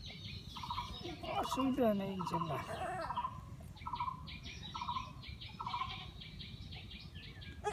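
Short repeated bird calls, about one a second, with a low falling voice briefly about two seconds in.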